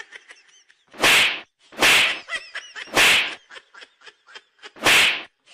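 Four short, loud whooshes, swish sound effects about a second apart with a gap before the last one, with faint small chirps between them.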